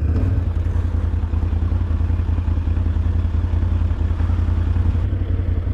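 Engine of an off-road vehicle running steadily at low speed along a dirt trail.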